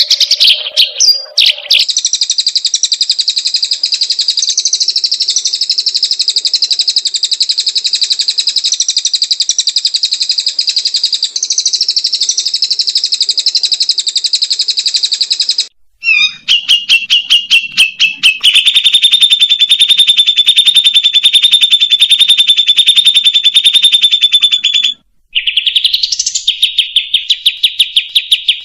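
Songbird giving very fast, buzzy trills: one long trill, a break with a run of sharp separate clicks, then a trill held on one steady high pitch, a short rising sweep about three-quarters of the way in, and the trill again.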